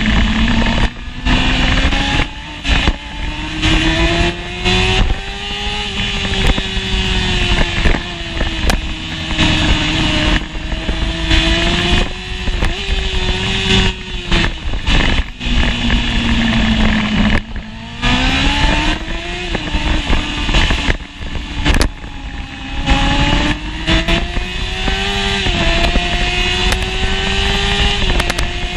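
1988 Honda CBR600F inline-four engine racing hard: revs climb repeatedly and break off sharply at gear changes, with a longer falling stretch in the middle as it comes off the throttle. Heavy wind rush over the microphone.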